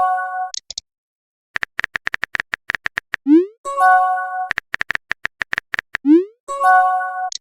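A looping electronic sound effect. A run of rapid clicks is followed by a quick rising blip and then a short synthesized chime chord. The pattern repeats about every three seconds, twice here.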